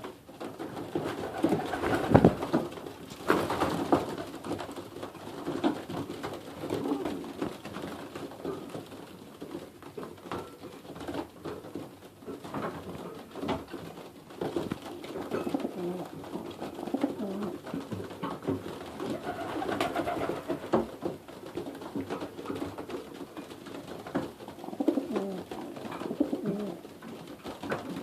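A loft full of young racing pigeons cooing, many calls overlapping, with scattered sharp clicks and taps, the loudest a couple of seconds in.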